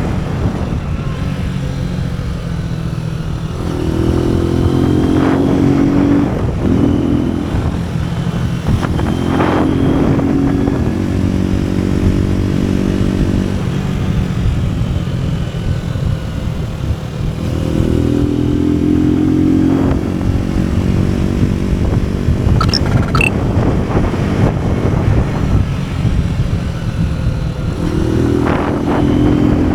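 AKT NKD 125 single-cylinder motorcycle engine running under way. Its note grows louder and higher and drops back about four times.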